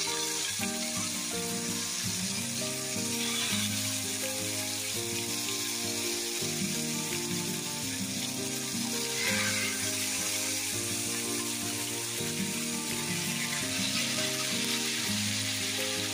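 Marinated tandoori chicken pieces sizzling in hot oil in a non-stick frying pan, a steady dense sizzle that flares up briefly twice as more pieces go into the pan.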